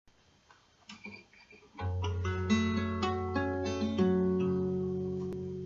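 Acoustic guitar intro: after a few faint sounds, a chord is struck about two seconds in, and further notes follow and ring out, slowly fading.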